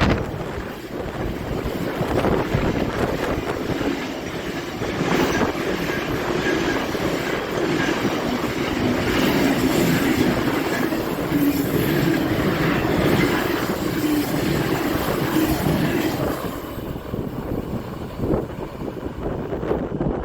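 Train passing on the line, its wheels running over the rails in a long steady rumble that eases off about sixteen seconds in.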